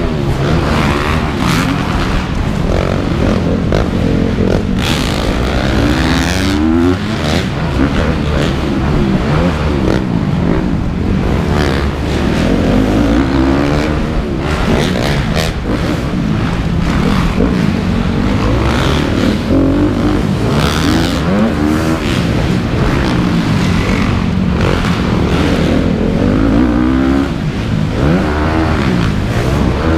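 Dirt bike engines revving hard and backing off over and over, their pitch rising and falling every few seconds, with more than one bike running at once.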